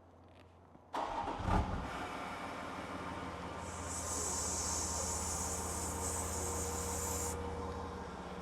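A 3.0-litre Lion V6 diesel engine starts about a second in, with a short loud burst as it catches, then runs at a steady idle on fresh oil. A high hiss comes in a few seconds later and stops shortly before the end.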